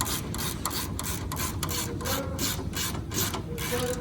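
Hand ratchet wrench being worked back and forth, a steady run of raspy clicking strokes about four a second.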